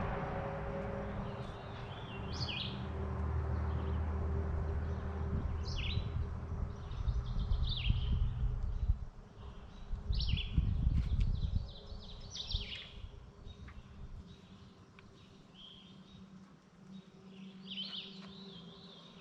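Songbirds singing, among them an American redstart's short high song phrases, repeated every few seconds. A low engine rumble lies under them and fades away about twelve seconds in.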